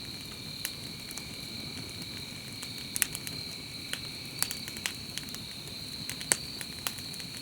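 Steady trilling insect chorus holding two high pitches, with sharp irregular crackles and pops scattered through it.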